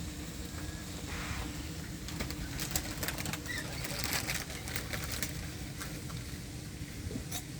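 Birds gathering for food: a flurry of wing flaps and quick taps about two to four seconds in, with a brief high chirp, over a steady low rumble.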